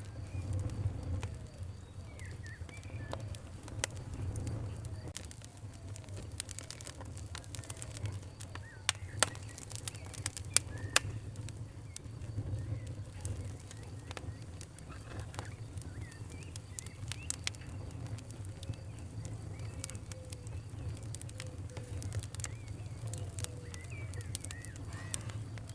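Wood fire crackling, with many sharp pops over a steady low rumble of flame; the loudest pops come in a cluster about a third of the way in. Birds call faintly in the background.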